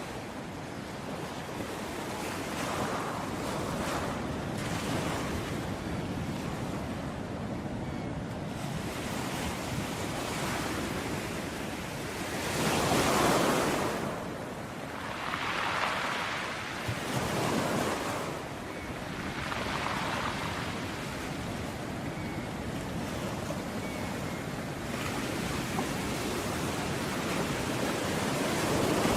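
Ocean waves breaking on a shore: a steady wash with several louder breakers, the biggest about halfway through and another near the end.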